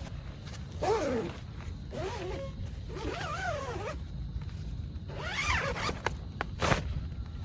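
A zipper pulled in four short strokes, its rasp bending up and down in pitch, then a sharp click near the end, over a steady low rumble.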